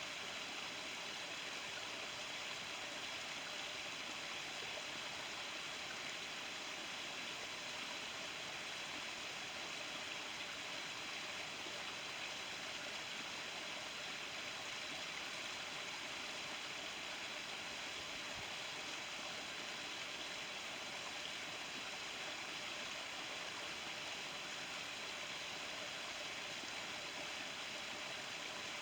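Steady, even hiss of outdoor background noise, unchanging throughout, with no single event standing out.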